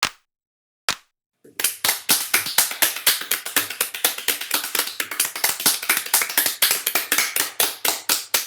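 Hand clapping: a single clap, another about a second later, then fast, steady clapping at about six claps a second that runs on for some seven seconds and stops near the end.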